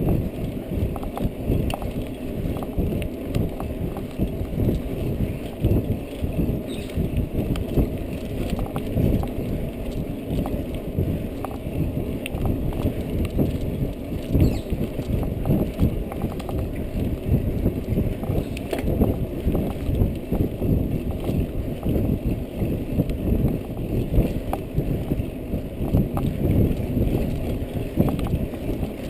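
Muffled, continuous rumble of a ride over a rough forest track, full of irregular knocks and jolts. It is heard through a GoPro's closed housing, which dulls everything above the low rumble.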